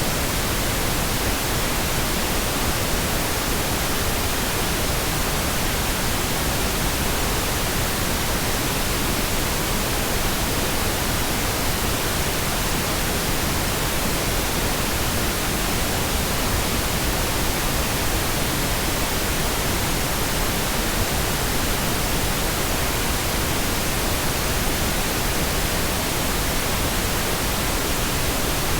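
Steady synthetic pink noise: an even, unbroken hiss spread across the whole range, heavier in the low end than white noise.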